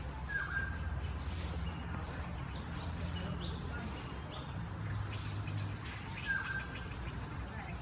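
Wild birds calling: two matching short calls about six seconds apart, with fainter short chirps between them, over a steady low hum.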